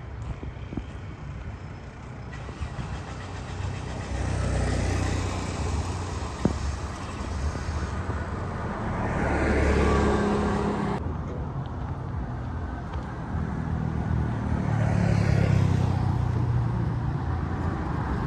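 Motor vehicle traffic: a steady engine rumble and road noise that swells several times as vehicles go by, with one sharp click near the middle.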